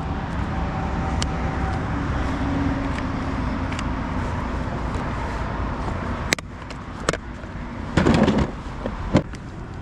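Steady wind noise, then a few sharp knocks and a short scuffling burst from about six seconds in, as a freshly caught mangrove snapper is handled and stowed on a kayak.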